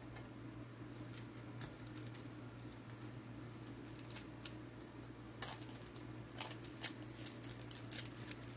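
Faint, irregular light clicks and taps, coming more often in the second half, over a steady low electrical hum.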